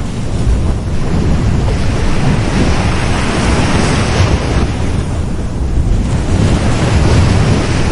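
Sea waves breaking and washing on a beach, a continuous surging rush that swells and eases, with wind buffeting the microphone.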